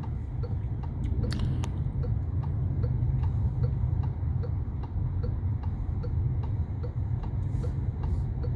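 A car's turn-signal indicator ticking evenly about twice a second inside the cabin, over the low rumble of the engine and road noise.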